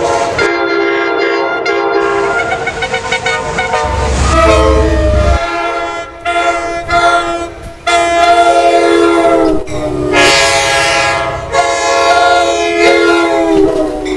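Passenger train's multi-note air horn sounding a chord in a series of long and shorter blasts, with a brief low rumble of the train about four seconds in. The sound cuts off abruptly at the end.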